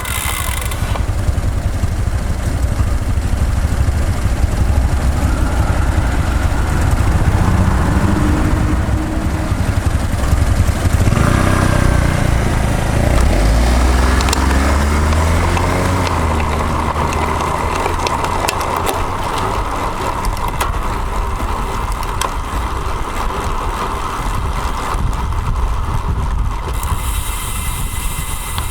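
Road traffic heard from a bicycle-mounted action camera, with wind rumbling on the microphone throughout. Through the middle, a nearby motor vehicle's engine rises and falls in pitch.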